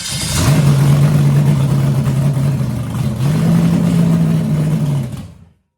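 Freshly built 350 Chevy small-block V8 running on its first start, held at fast revs that sag briefly about three seconds in and pick up again. The sound cuts off abruptly near the end.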